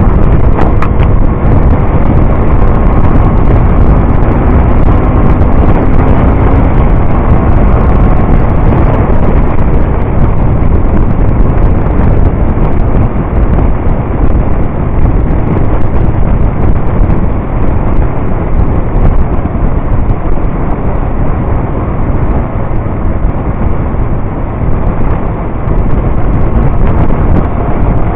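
Motorcycle riding at steady highway speed, its engine and road noise under heavy wind buffeting on the microphone.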